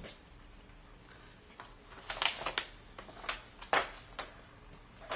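Cardboard jigsaw puzzle pieces handled on a table: about half a dozen light clicks and taps, bunched in the middle seconds.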